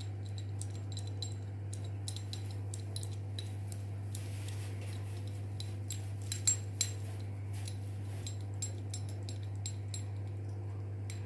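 Light metallic clicks and clinks of hand tools and a bearing puller being handled on a ceiling fan's motor, with two louder clinks about six and a half seconds in, over a steady low hum.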